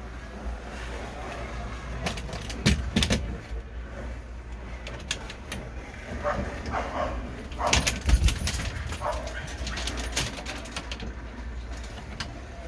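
Wooden plywood template knocking, bumping and scraping as it is pushed and wedged into a tight-fitting camper window rail, with a cluster of sharp knocks about eight seconds in, over a steady low rumble.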